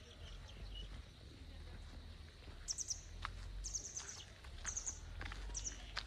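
A small songbird calling: short high chirps in quick clusters, repeated about once a second through the second half, over a steady low rumble.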